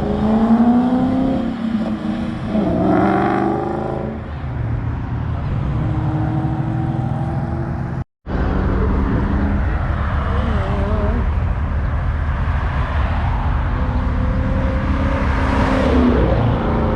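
Car engines running and revving as cars drive past, with rising and falling pitch sweeps. The sound breaks off briefly about eight seconds in.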